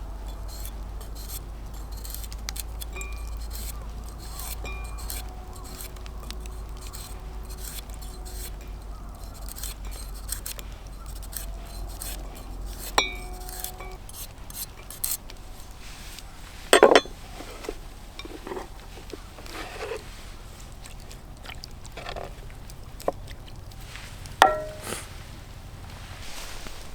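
Cookware and utensils clinking and knocking as cooking is prepared, with many small clinks and a few louder knocks, including one about 17 seconds in and one near the end.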